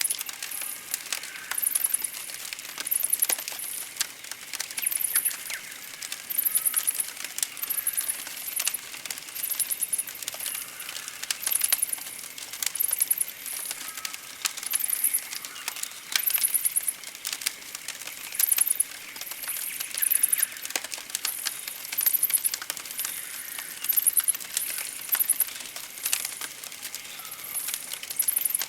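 Campfire crackling, with many sharp pops and snaps, under very high, thin chirping that comes in short bursts about once a second, with fainter bird calls in between.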